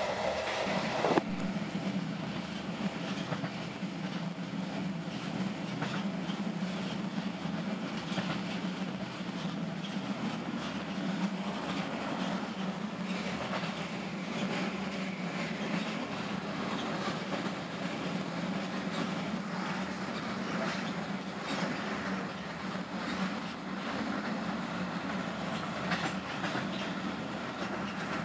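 Passenger train running at speed, heard from inside the carriage: a steady rumble with a constant low hum and the intermittent clack of wheels over the rails.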